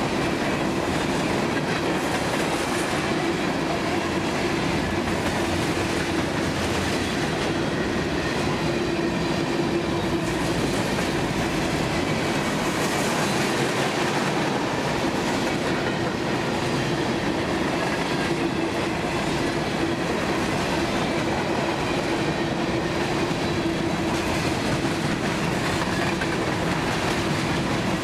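Freight train rolling past at speed, its cars' wheels clacking over the rail joints in a steady rush of noise.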